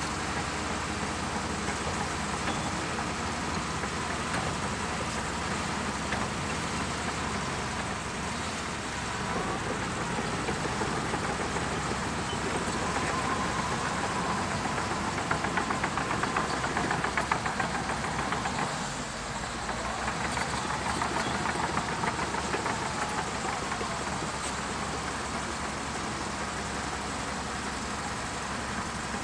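Bulldozer's diesel engine running steadily, growing louder for a few seconds past the middle and dropping briefly about two-thirds of the way through.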